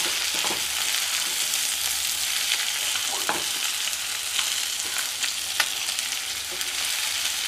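Chicken drumsticks with chopped onion and garlic frying in oil in a nonstick pan: a steady sizzle, with a wooden spatula scraping and knocking against the pan now and then as the pieces are stirred.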